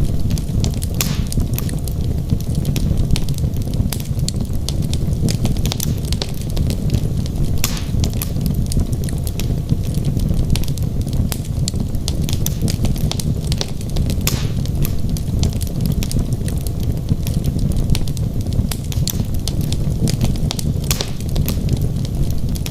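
Wood fire burning in a fireplace: a steady low rumble of flames with frequent sharp crackles and pops from the burning logs, a few louder than the rest.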